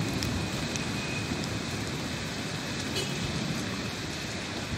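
Steady hiss of heavy rain falling over a city street, with the low rumble of road traffic beneath it.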